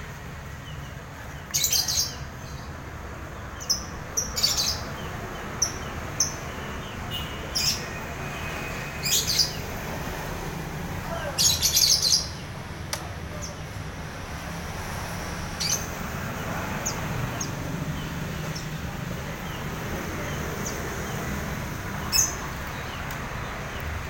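Small caged songbirds giving short, sharp chirps in scattered bursts a few seconds apart, over a steady low background hum.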